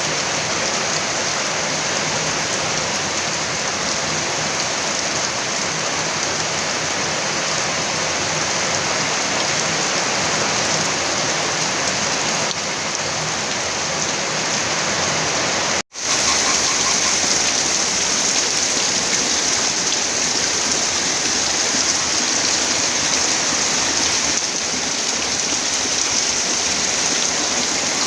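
Heavy rain falling steadily in a dense, even hiss, broken by a momentary drop-out about halfway through.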